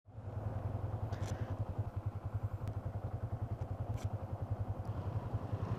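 Motorcycle engine idling steadily with a fast, even low throb, with a few light clicks over it.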